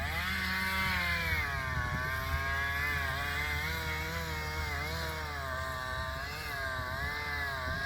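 A four-wheel drive's engine revving hard under load, its pitch rising at the start and then wavering up and down as it works.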